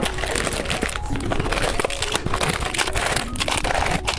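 Plastic candy wrapper crinkling as it is handled and opened, a dense run of irregular crackles and rustles.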